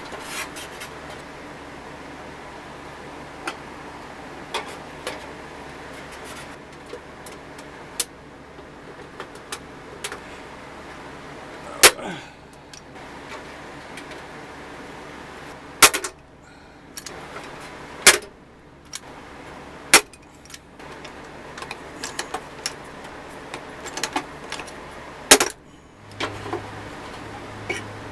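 Small metal parts of a vintage Tonka toy crane clinking and tapping as they are handled, with about five sharp metallic knocks spread through.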